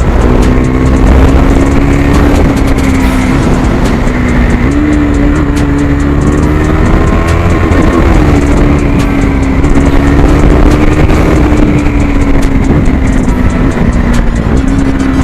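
KTM 390 Duke's single-cylinder engine heard through its exhaust with the dB killer removed, running at steady revs. The pitch steps up briefly about four seconds in, about eight seconds in and near the end, then eases back each time.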